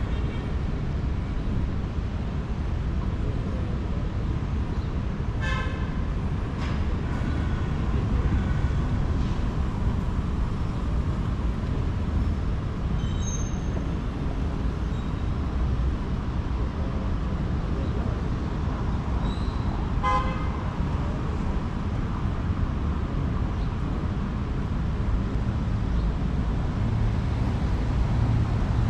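Steady city street traffic rumble, with two short car horn toots about fifteen seconds apart.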